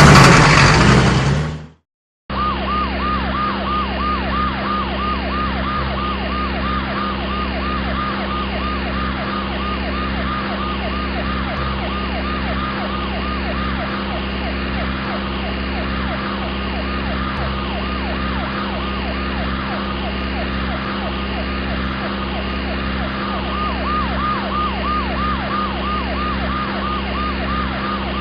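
Cartoon siren sound effect: a fast, repeating up-and-down wail looping steadily over a low hum, starting after a loud noisy burst that cuts off about two seconds in.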